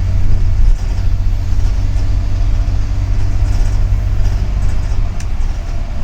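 Double-decker city bus running: a steady low rumble of engine and road noise heard from inside the cabin.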